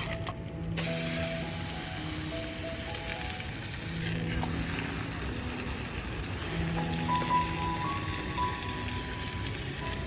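A steady sizzling hiss over background music.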